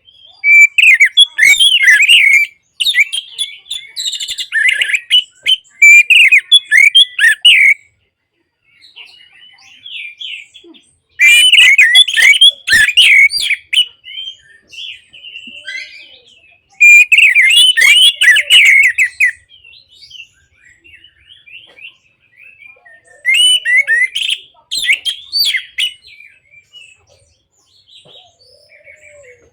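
Orange-headed thrush (anis merah) singing in loud bouts of rapid, varied warbled phrases. There are five bursts of song separated by short pauses filled with faint chirps, and the longest burst lasts about five seconds.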